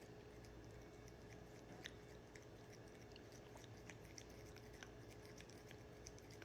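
Faint, scattered small wet clicks of a cat licking and chewing wet food off a spoon, over a faint steady hum.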